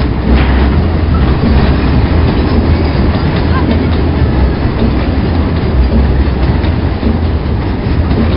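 Loaded mineral hopper wagons of a long freight train rolling past: a steady, loud, heavy rumble, with the wheels clacking over the rail joints.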